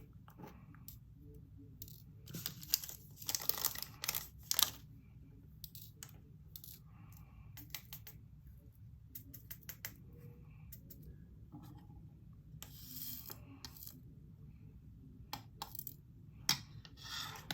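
Tiny plastic diamond-painting drills clicking and rattling against a small plastic storage container as they are poured and handled, in scattered bursts with quiet gaps between.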